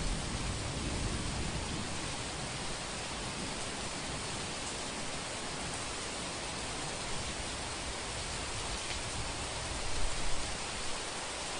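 Steady rain hiss. A low rumble of distant thunder dies away at the start and swells briefly again near the end.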